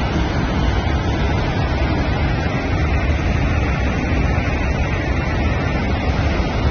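Rushing floodwater of a river in spate: a loud, steady, unbroken rush with a deep rumble underneath.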